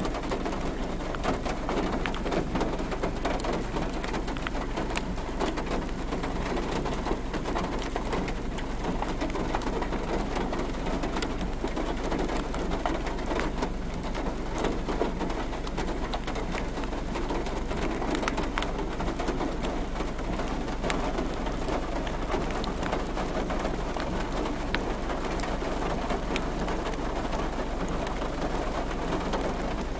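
Steady rain falling, a continuous hiss of water with many small drop impacts ticking through it.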